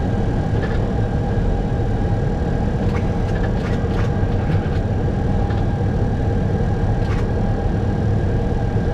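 Steady flight-deck noise of an Airbus A321 in flight: a low rumble with a constant hum over it, and a few faint clicks.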